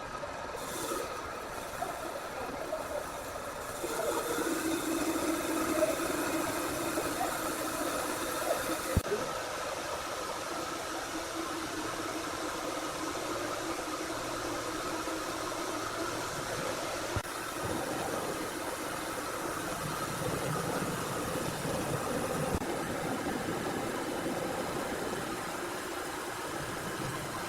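Sawmill machinery running steadily, a mechanical noise with a wavering hum, changing abruptly a few times, with an occasional short knock.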